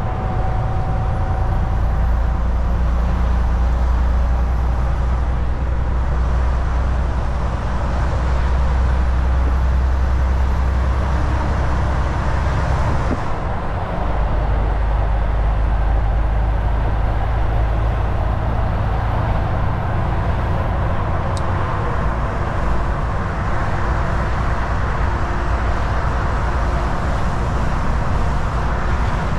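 Semi truck cruising on the highway: a steady low engine drone under tyre and road noise. The drone dips and shifts briefly about halfway through.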